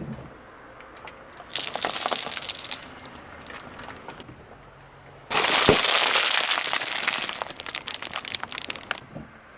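Crunchy objects being crushed, crackling and cracking in two bursts: a shorter one about a second and a half in, then a longer, louder one starting suddenly about halfway through and fading out near the end.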